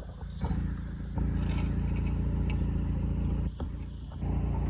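An engine running steadily with a low hum. It drops away briefly at the start and again about three and a half seconds in.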